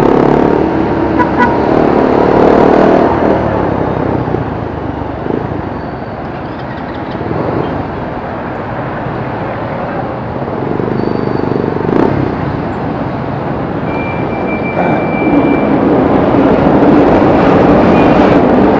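Street traffic noise: motor vehicles running and passing, with a short high beep about fourteen seconds in.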